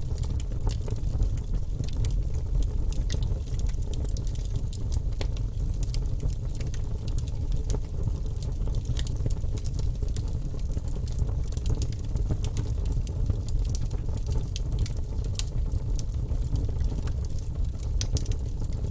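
Wood fire burning in a fireplace: a steady low rumble with frequent small crackles and pops throughout.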